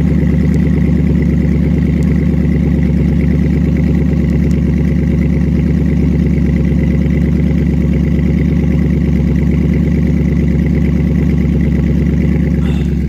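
2009 Dodge Challenger SRT8's 6.1-litre Hemi V8 idling steadily through its Corsa exhaust with the baffles open, a loud, even, pulsing rumble.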